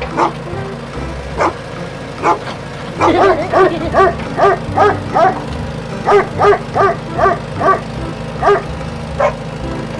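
A dog barking over and over in short sharp barks, with a fast run of barks in the middle, over a steady low hum.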